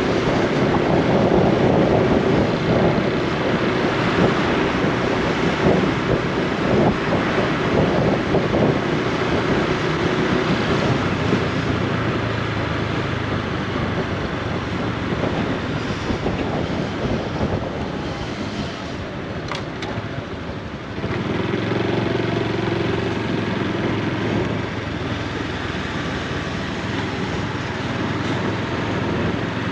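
Honda Super Cub C125's air-cooled single-cylinder four-stroke engine and exhaust running steadily while riding, with rushing wind. The engine note dips briefly about two-thirds through, then steadies again.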